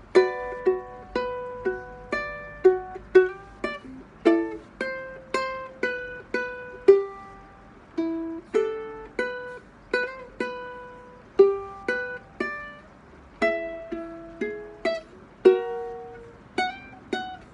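Solo ukulele played fingerstyle: a slow melody of single plucked notes over arpeggiated chords, each note ringing briefly and fading.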